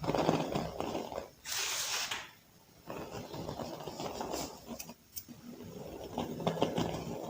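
Soft balls of baking soda being crushed and crumbled: gritty crunching that comes in two bursts, a brief pause about two and a half seconds in, then steady crumbling with many small sharp cracks.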